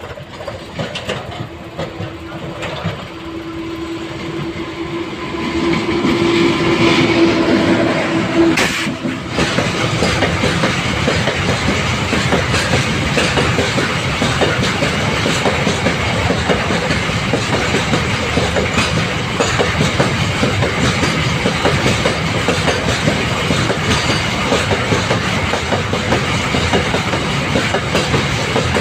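Train approaching and passing close by: first a long steady tone that grows louder, then, from about nine seconds in, a continuous clatter of wheels over the rail joints as the cars go past.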